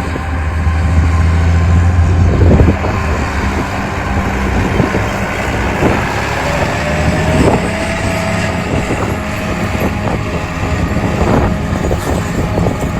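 John Deere 8400T tracked tractor's 8.1-litre diesel engine running steadily under load while pulling a cultivator, its low drone strongest in the first couple of seconds. Irregular short knocks come through over the engine, and a faint rising whine is heard about halfway through.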